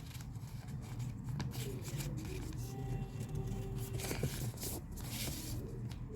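Paper being folded and creased by hand, with small clicks and a louder rustle about four seconds in, over a steady low hum.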